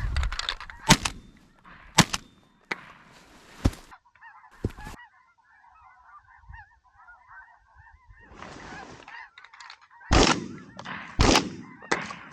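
A flock of geese calling, many overlapping short honks, with several sharp loud knocks, the loudest two near the end.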